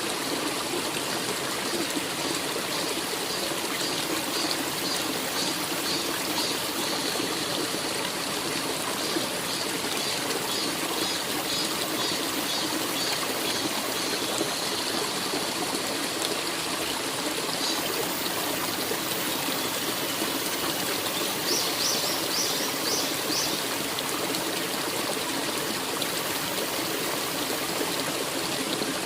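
A forest stream running and trickling steadily, with runs of high chirping over it through much of the first half and once more, briefly, past the two-thirds mark.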